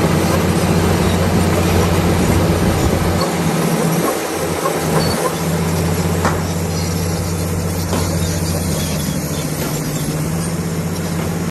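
Komatsu D65PX crawler bulldozer working: its diesel engine runs with a steady low hum under the rattling, grinding noise of the steel tracks. The engine note dips briefly about four seconds in, then steadies again.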